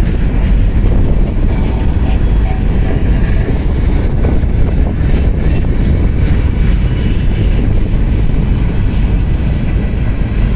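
Loaded gondola cars of a long freight train rolling past, a steady rumble of wheels on rail. Wind buffets the microphone.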